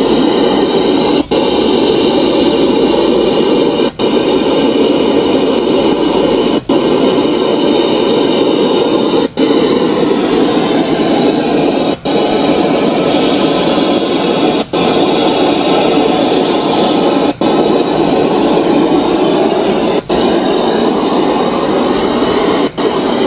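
Carnival sound system of stacked 15-inch subwoofers playing at very high volume during a sound check, heard as a dense wash of distorted noise. It cuts out briefly about every two and a half to three seconds.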